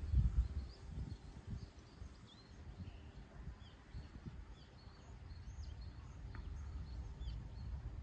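Small birds chirping and calling in short, quick notes, scattered and faint, over a low gusting rumble of wind on the microphone that is loudest in the first second.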